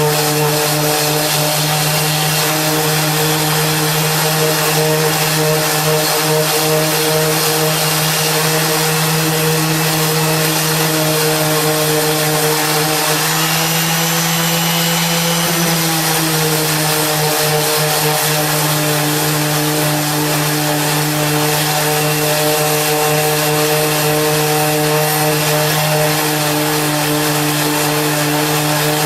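Draper Expert 240 V random orbital sander sanding a small piece of wood with an 80-grit disc: a steady motor hum with the hiss of sandpaper on wood. The hum rises slightly in pitch about halfway through, then settles back.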